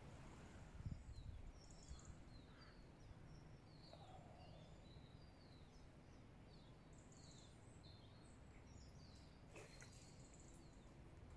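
Faint songbird chirping, many short high notes scattered throughout, over a low steady outdoor rumble, with a soft knock about a second in.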